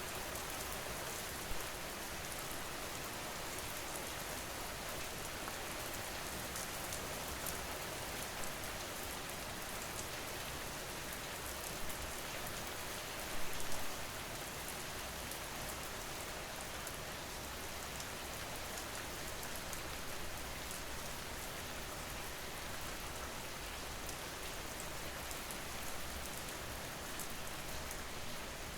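Steady rain falling on a surface, with the patter of individual drops; a slightly louder gust of rain about halfway through.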